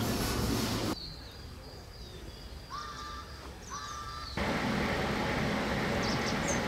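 Steady outdoor background noise that drops away about a second in. In the quieter stretch a bird gives two short calls about a second apart. The steady noise returns after about four and a half seconds, with a few faint high bird chirps near the end.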